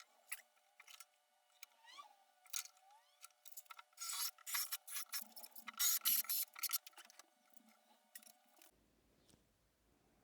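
A run of small clicks, then several short bursts of rubbing about four to seven seconds in, from handwork.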